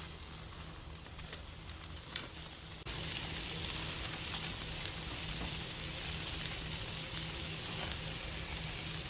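Steak and foil-wrapped food sizzling on a grill over a campfire, a steady hiss with scattered small crackles. A sharp pop comes about two seconds in, and just before three seconds the sizzle steps up louder and stays that way.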